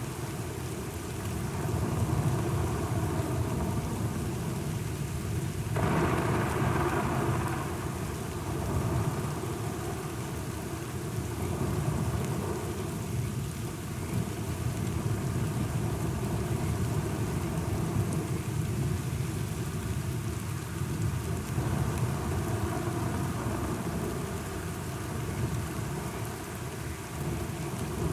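Thunderstorm: steady rain with low rolling thunder, and a louder thunderclap about six seconds in.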